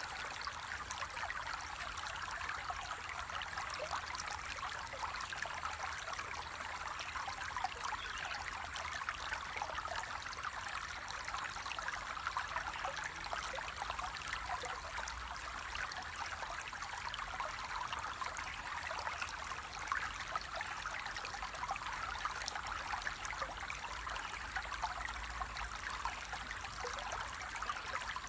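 Flowing water of a stream, a steady trickling rush with no breaks.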